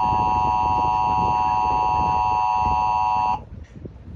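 Emergency Alert System attention signal: a steady, loud alert tone with a rough low noise beneath it, cutting off abruptly about three seconds in. It announces a broadcast severe thunderstorm warning.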